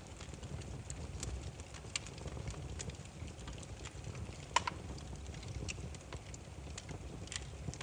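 Wood fire crackling: scattered sharp pops and snaps of burning logs over a low steady rumble of the flames, one louder pop about four and a half seconds in.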